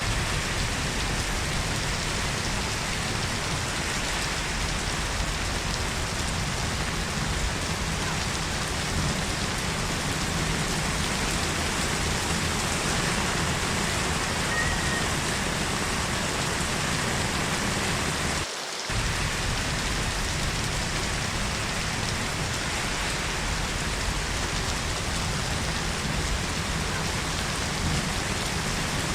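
Heavy rain falling steadily, a dense continuous hiss of drops hitting surfaces, with a momentary dip in its low end about two-thirds of the way through.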